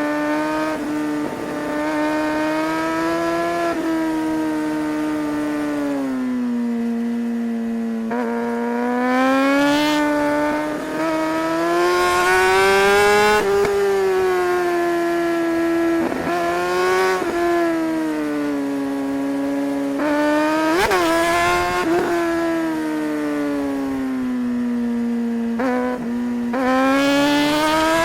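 2008 Suzuki GSR600's inline-four engine under load. Its revs rise and fall over and over as the bike accelerates and rolls off, and the pitch breaks sharply a few times at gear changes made with a quickshifter.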